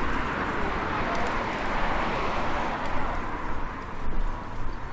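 A car passing on a road, its tyre and engine noise loudest at first and fading away over the last couple of seconds.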